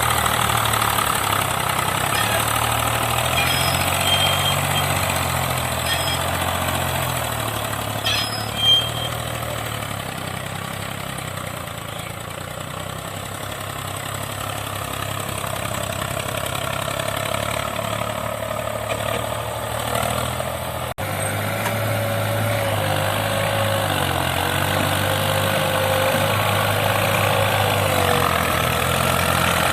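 Diesel tractor engines running, the engine note stepping up and down in pitch. There is a sharp knock about nine seconds in, and the sound breaks off for an instant about two-thirds of the way through before the engine carries on.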